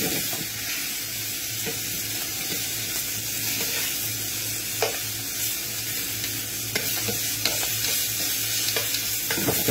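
Lamb's liver, bacon rashers and onions sizzling in oil in a frying pan, with a few short clicks of metal tongs against the pan as the food is moved about.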